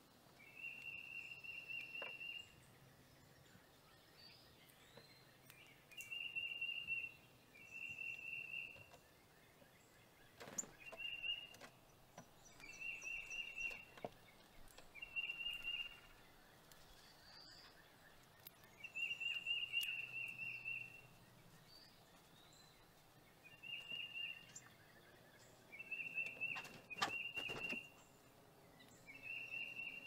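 A bird calling over and over: a high trilled phrase about a second long, repeated about a dozen times with short pauses. A few sharp clicks sound over it, several close together near the end.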